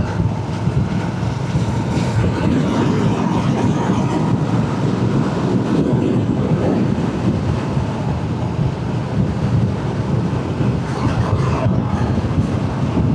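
Motorcycle riding at a steady cruise: engine running evenly under a constant rush of wind noise on the rider's microphone.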